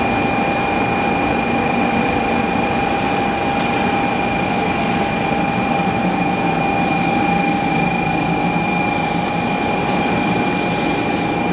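500 Series Shinkansen train moving slowly alongside a station platform: a steady high whine over a rumbling noise that stays even throughout.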